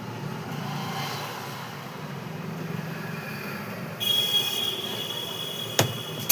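Hand work on a mixer grinder motor's shaft and bush: a high metallic squeal of metal rubbing on metal starts sharply about four seconds in, followed by a few sharp clicks of metal on metal near the end.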